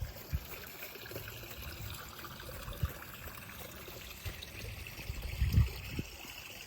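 Water trickling and running steadily, with a few low thumps; the loudest thump comes about five and a half seconds in.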